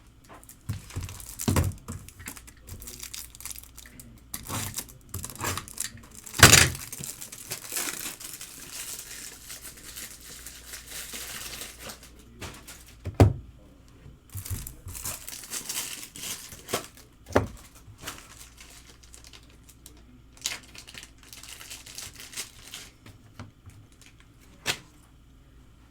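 Wrapping on trading-card boxes and packs tearing and crinkling in bursts, with several sharp knocks as things are set down.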